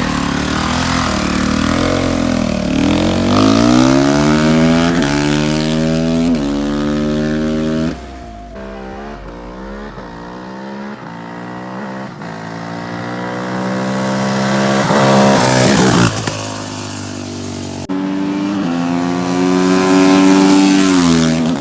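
Dirt bike engines accelerating hard, the pitch climbing and dropping back at each gear change. The sound drops lower in the middle, builds again, and is loudest near the end, where the revs hold high and then fall away.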